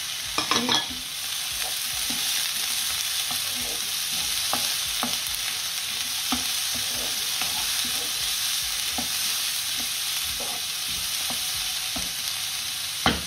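Sliced vegetables sizzling with a steady hiss in a hot non-stick wok as a wooden spoon stir-fries them, clicking and scraping against the pan now and then. There is a short clatter of knocks about half a second in and one sharper knock near the end.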